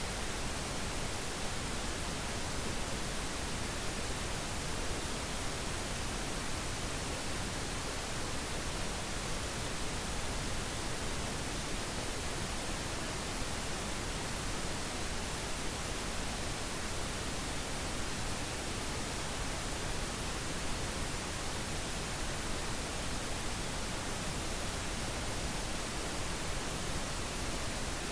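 Steady synthetic pink noise: an even, unchanging hiss spread across the whole range, with no events or variation.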